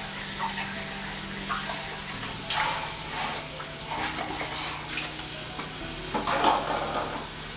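Dishes being washed by hand at a sink: a sponge scrubbing a pan in irregular strokes with splashes of water, the loudest about six seconds in, over a faint steady low hum.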